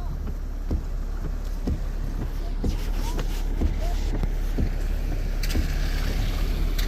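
Steady low rumble of a vehicle idling, with scattered light knocks and two brief clicks near the end.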